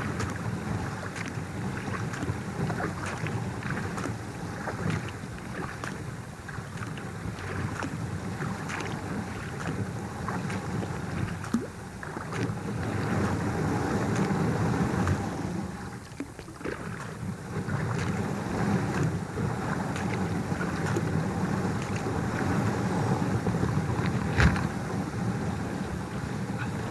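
Thin sheet ice breaking against a kayak hull as it is paddled through: a continuous scraping, grinding noise full of irregular sharp cracks and clicks. One crack about 24 seconds in is the loudest.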